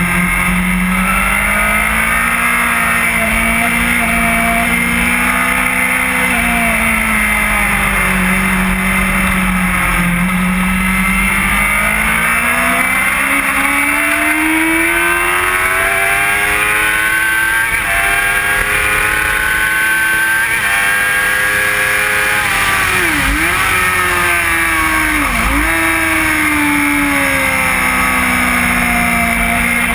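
Sport bike's inline-four engine running hard on track, heard onboard. The engine note climbs and falls with throttle and gear changes, with a long rise through the middle and two sharp momentary dips near the end, over constant wind rush.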